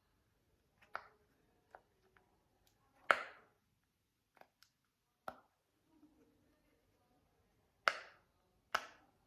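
Sharp pops from a sensory anti-stress toy being pressed, about six spaced a second or more apart, the loudest about three seconds in and two close together near the end.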